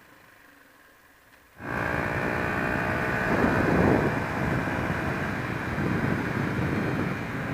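Faint hum for about a second and a half, then a sudden switch to a Honda XR125's single-cylinder four-stroke engine running on the move, with wind rush over the microphone. The engine note swells briefly a couple of seconds after it comes in.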